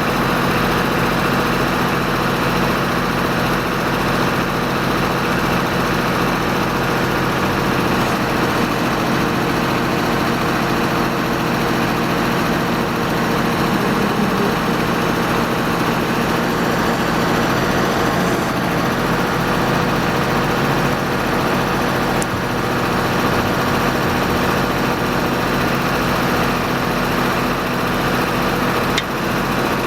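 Tractor engine running steadily while it powers a John Deere #8 backhoe attachment, with slight swells in load now and then.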